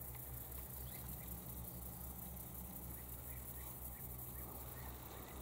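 Faint, short chirps of small birds calling now and then, over a steady low rumble.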